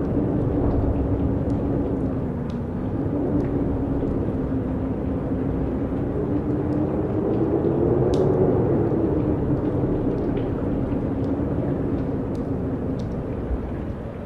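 Strong wind blowing steadily, with a low moaning tone that wavers up and down in pitch.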